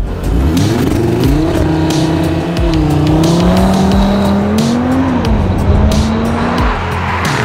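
CUPRA Formentor VZ5's turbocharged five-cylinder engine revving hard under full acceleration, its pitch climbing and dipping through the gear changes.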